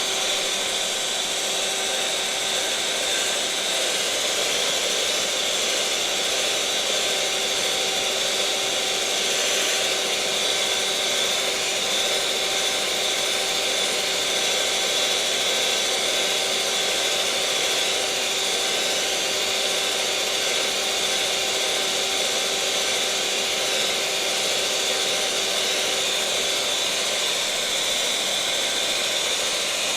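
Electric mixer's motor running steadily at constant speed, an even whirring hum with a fixed whine.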